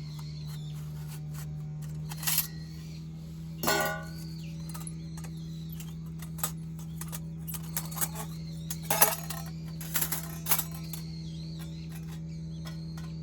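Metal objects clinking and clattering as they are handled, a few separate knocks, one with a short ringing, over a steady low hum.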